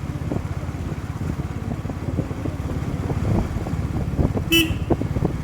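Motorcycle engine running steadily under way, with road rumble and scattered knocks. A short horn beep sounds about four and a half seconds in.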